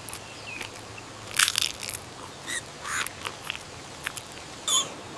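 Baby monkey chewing sticky candy: irregular crackly, crunching noises with a few brief high squeaks.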